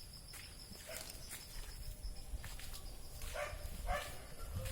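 Two short animal calls close together near the end, over a faint steady high tone and a low background rumble.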